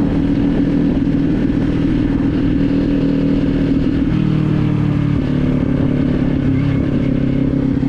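Kawasaki Z400's 399 cc parallel-twin engine running steadily while the motorcycle is ridden, its note dropping a little about four seconds in and again about a second later.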